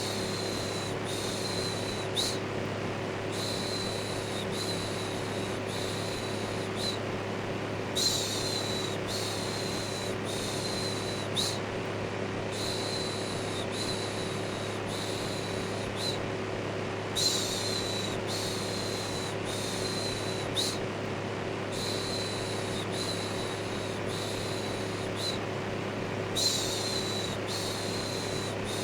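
Steady electric fan hum with a soft "shhh" shushing repeated over it, about one shush a second in runs of four or five. Each run opens with a slightly louder shush and is followed by a short pause. Continuous white noise for soothing a baby to sleep.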